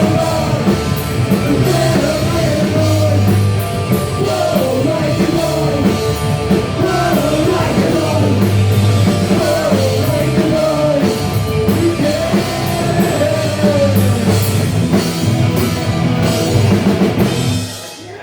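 Live punk rock band playing: distorted electric guitars, bass and a drum kit under a sung lead vocal, loud and steady. The music drops away just before the end.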